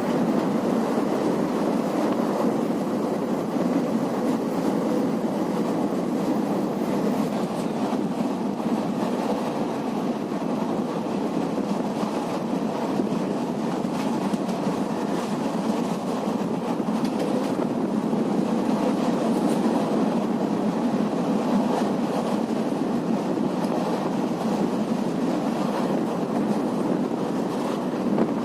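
Passenger train running along the rails, heard from on board: a steady rumble of wheels on track with faint clicks.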